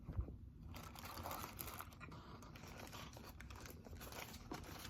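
Faint close-up chewing of a McDonald's double cheeseburger: soft, irregular mouth sounds with many small clicks.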